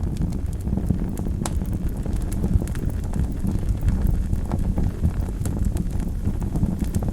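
Wood fire burning in a fireplace: a steady low rumble of the flames with irregular sharp crackles and pops, one louder pop about a second and a half in.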